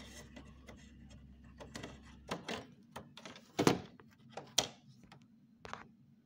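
Clicks and knocks of the air filters of a wall-mounted split air conditioner being handled and pulled out of the indoor unit, with two sharper knocks a little past the middle. A low hum underneath stops about a third of the way in.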